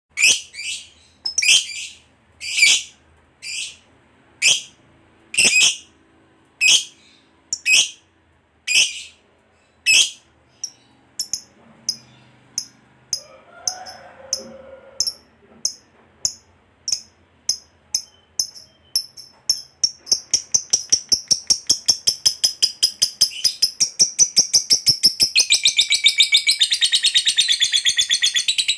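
A lovebird calling: about ten separate shrill screeches roughly a second apart, then shorter chirps that speed up and run together in the last third into a long, rapid unbroken chatter, the 'ngekek panjang' prized by lovebird keepers.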